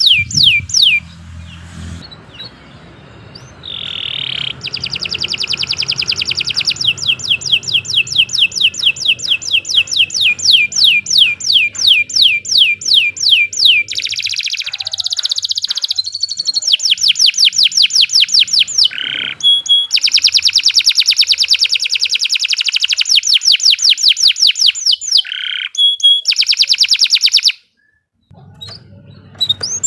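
Domestic canary singing long, fast trills of rapidly repeated high down-sweeping notes, each phrase lasting several seconds, with short breaks between phrases. A low hum runs underneath through the first half, and the song drops out briefly near the end.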